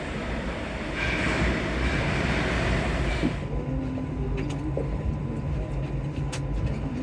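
Alstom MP14 rubber-tyred metro train running on Paris Métro line 4, heard from inside the front car: a steady rumble with a hiss that drops away about three seconds in, leaving a lower hum with a few light clicks.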